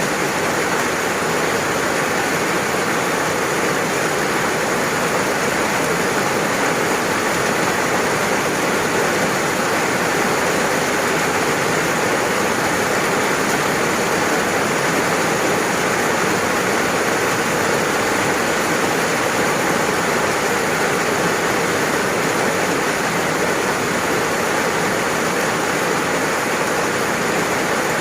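Steady, dense rainfall with an even hiss and no separate drops or thunder standing out.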